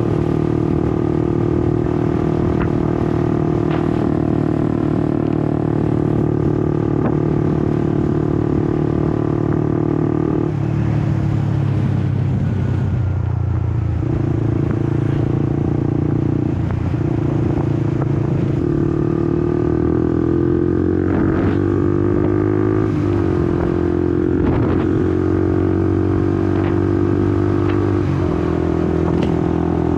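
Honda CBR150R's single-cylinder engine running on the road, heard raw from the bike. Its revs hold steady for about ten seconds, drop, then climb again in steps through the middle before settling near the end.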